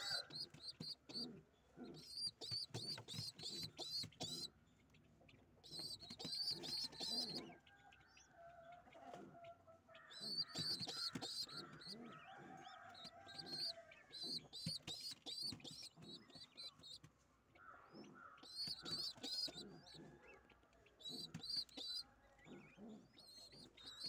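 Birds calling: bursts of rapid high-pitched chirps, each a second or two long and coming every few seconds, with lower, drawn-out calls between them.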